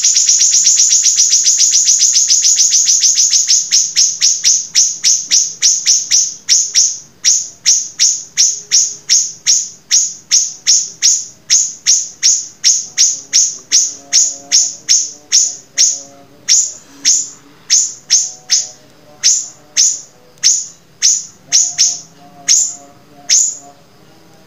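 A songbird calling a long run of sharp, high, downward-sweeping notes in rapid fire. The notes come about eight a second at first and slow to about two a second near the end.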